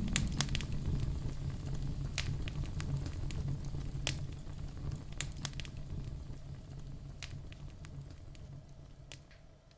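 Wood logs burning in a fireplace: a low rumble of flame with irregular sharp crackles and pops. The sound fades away over the last few seconds.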